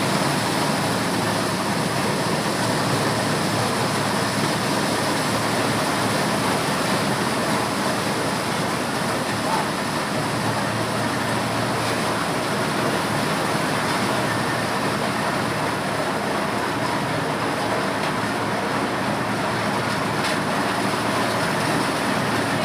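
Corn sheller machine running steadily: a loud, even mechanical noise with no pauses.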